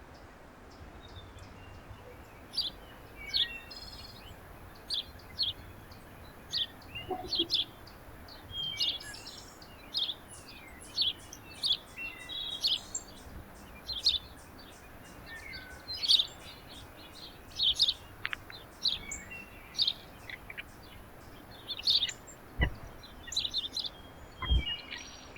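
Backyard feeder birds chirping, many short, high calls in quick succession and sometimes overlapping. Two sharp knocks come near the end.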